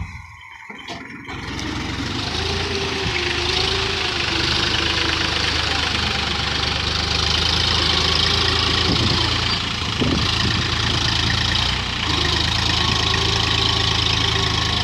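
Mahindra 275 DI tractor's three-cylinder diesel engine running steadily. It is quieter for the first second or so, then holds an even, loud hum.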